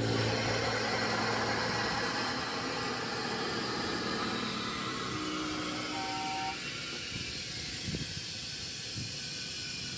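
Steady hiss of rushing air that starts abruptly and slowly eases off.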